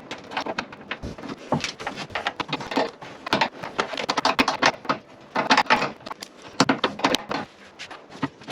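Hand tools and metal fasteners clicking and clattering in quick, irregular clusters as fasteners are fitted and tightened.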